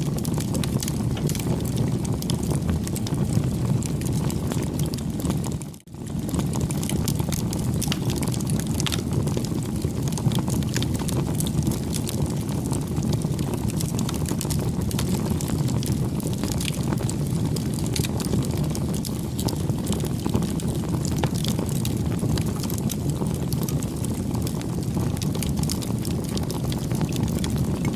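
Bonfire burning: a steady low rumble of flames with many small crackles and pops of burning wood throughout. The sound briefly drops almost away about six seconds in.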